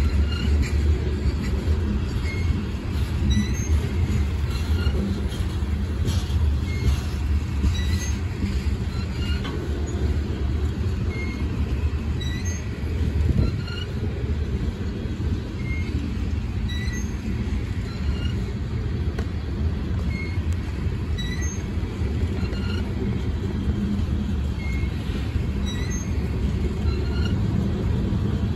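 Coal train gondola cars rolling past, a steady low rumble of steel wheels on rail.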